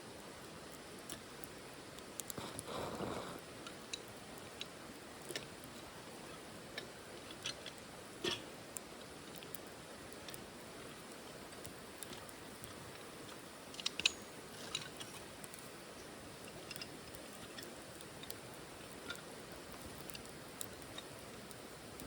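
Wood fire crackling in a small titanium wood stove: scattered sharp pops and snaps over a faint steady hiss, loudest about fourteen seconds in. A brief rustling noise lasts about a second, two to three seconds in.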